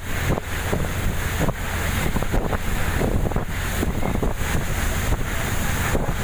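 Wind buffeting the microphone over the steady rumble and water noise of a fast passenger boat under way at sea.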